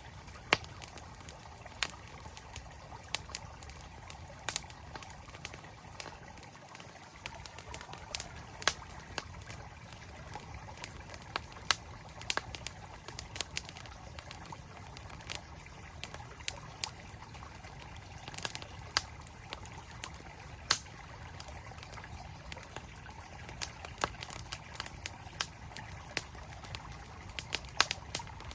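Wood campfire crackling, with irregular sharp snaps and pops, over the steady rush of a flowing mountain stream.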